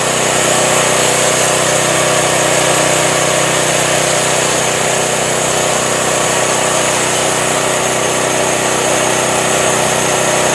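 Home-built band sawmill running steadily, its engine and band blade making an even, unbroken mechanical noise.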